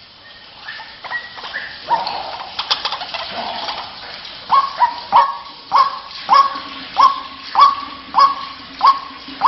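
White-breasted waterhen (ruak-ruak) calling: scattered calls at first, then from about halfway a regular series of loud, repeated croaking notes, a little under two a second.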